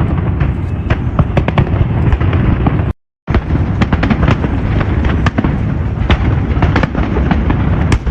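Dense fireworks display: a continuous low booming with many sharp cracks and bangs packed close together. The sound cuts out completely for a moment about three seconds in.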